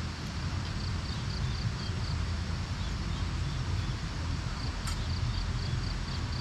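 Wind buffeting the microphone as a steady low rumble, with two short runs of quick high chirps, about four a second, and a single sharp click.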